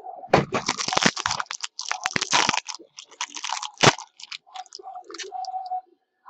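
Crinkling, crackling cardboard and plastic packaging as a trading card box is torn open by hand, loudest for the first couple of seconds, with one sharp snap about four seconds in and small clicks after it.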